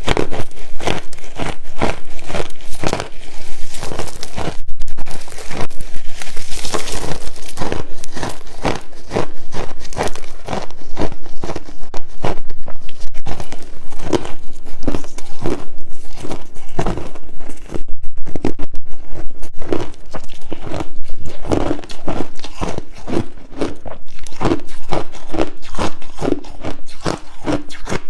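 Crushed ice being bitten and chewed close to the microphone: loud, rapid, irregular crunching as the chunks crack and break up between the teeth.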